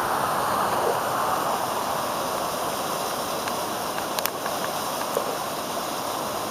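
Steady rushing of water from a waterfall running in the monsoon season, with a few faint clicks about four seconds in.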